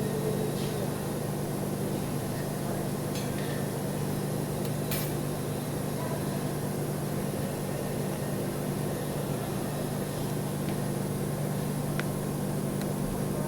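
Steady electrical hum with an even hiss, unchanging throughout, with a few faint clicks.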